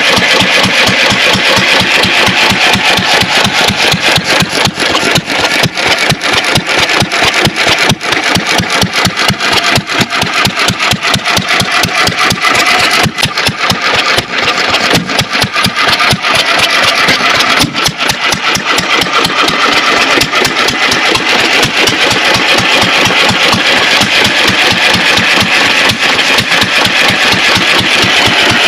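A 3 hp Witte hit-and-miss engine, a single-cylinder stationary gas engine, running with a rapid, even train of knocking beats.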